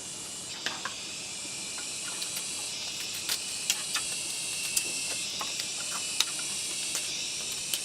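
Steady insect chorus, a high shrill drone of cicadas or crickets, with scattered sharp clicks and crackles every second or so.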